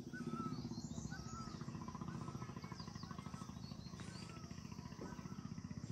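Birds calling: a short whistled note repeated about once a second, with scattered higher chirps, over a steady low fluttering hum.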